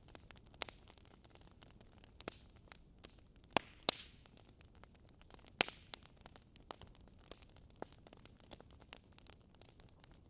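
Wood fire crackling in a fireplace: an irregular scatter of small pops and snaps over a soft hiss, with a few louder snaps, two of them close together a little before the middle.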